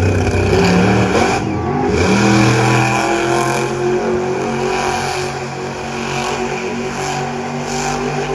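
Monster truck engine revving up and down, loud, with the revs climbing and dropping several times.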